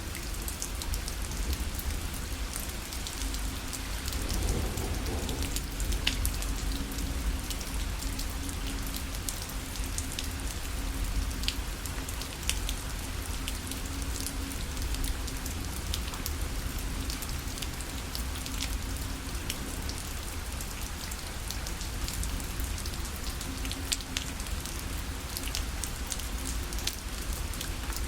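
Steady rain falling on a parasol canopy, individual drops landing as sharp little ticks over an even hiss and a low rumble.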